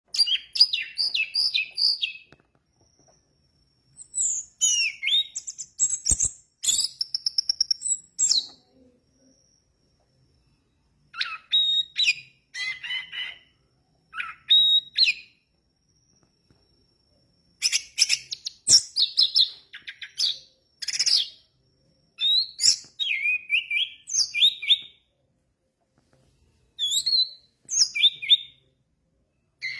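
Orange-headed thrush (anis merah) in full, vigorous song: loud phrases of one to two seconds built from rapid repeated notes and quick gliding whistles, with short pauses between them. There is one sharp click about six seconds in.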